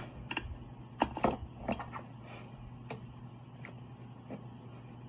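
Eating seafood: scattered mouth and shell clicks and smacks while chewing, sharpest about a second in, then thinning out. A low steady hum runs underneath.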